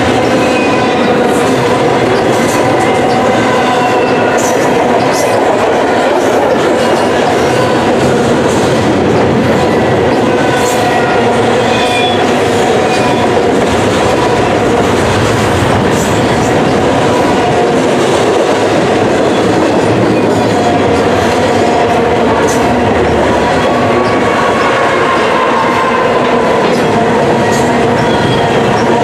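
Double-stack intermodal container train's well cars rolling past close by: a loud, steady roar of steel wheels on rail, with scattered sharp clicks and thin squealing tones that drift up and down in pitch.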